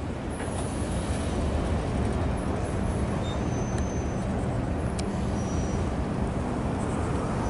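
Steady low rumble of a long freight train out of view, with a few short faint wheel squeals and a single click about five seconds in.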